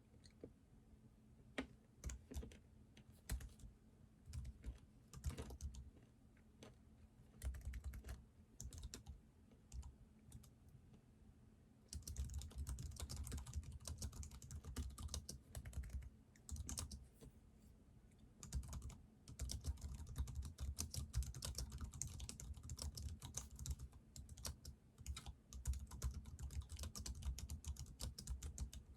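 Typing on a computer keyboard, a few scattered keystrokes at first, then steady fast typing from about twelve seconds in, with short pauses.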